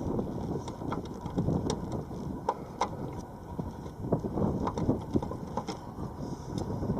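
Wind buffeting the microphone, with scattered light clicks and knocks from hand work on the narrowboat roof.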